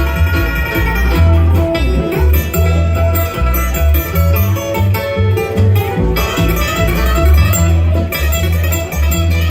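Bluegrass band playing an instrumental passage: picked acoustic guitar and banjo over a steady bass line.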